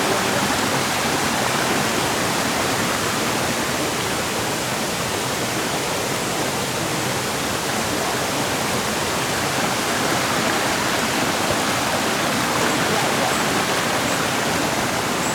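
Shallow river water rushing steadily, a loud, even noise of flowing water without a break.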